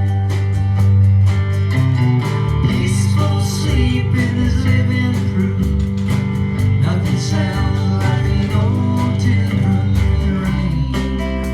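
Country band playing live, guitars over low bass notes and a steady beat.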